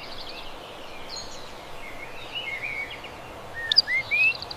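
A bird calling with short chirps over steady outdoor background hiss. The chirps come scattered through the middle, and a few quick rising chirps come near the end.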